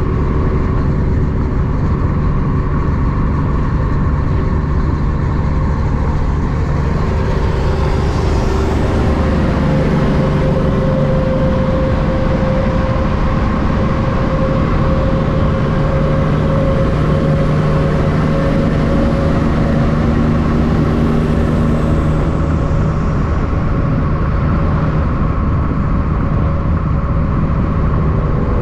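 Road traffic with heavy diesel trucks running by, a steady engine drone and tyre noise throughout. A vehicle passes closer from about eight seconds in to about twenty-two, raising a brighter hiss before it fades.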